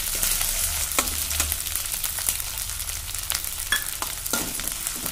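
Green chillies, garlic and curry leaves sizzling and crackling in hot oil and ghee in a steel kadai, stirred with a steel slotted spoon that scrapes the pan, with a few sharper clicks along the way.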